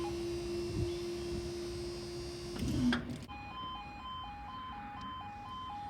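Level crossing barrier mechanism humming steadily as the half barriers rise, stopping about two and a half seconds in. Then a level crossing's two-tone warning alarm alternates high and low about twice a second, faintly.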